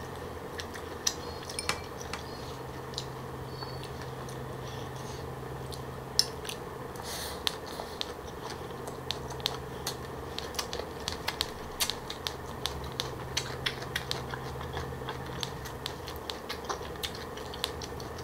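Close-miked chewing of green papaya and pig's ear salad, with irregular sharp crunches and clicks of chopsticks that come more often in the second half, over a steady low hum.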